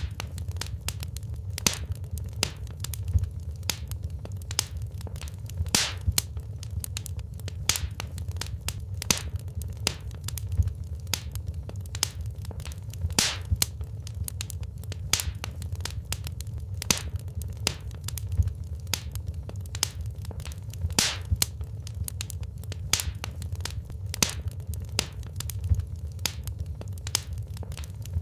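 Wood fire crackling in a fireplace: irregular sharp snaps and pops, a few louder than the rest, over a steady low rumble of the flames.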